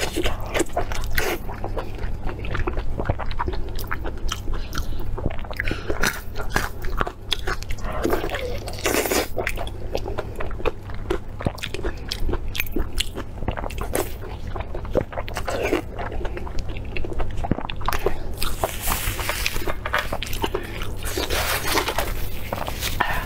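Close-miked eating sounds: a person biting into and chewing oily, skin-on meat, with many irregular wet clicks and smacks of lips and mouth. A steady low hum runs underneath.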